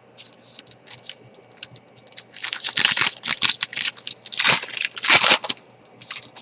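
Foil wrapper of a hockey trading-card pack crinkling and tearing as it is ripped open by hand. The rustling comes in bursts, loudest about halfway through and again a second or two later.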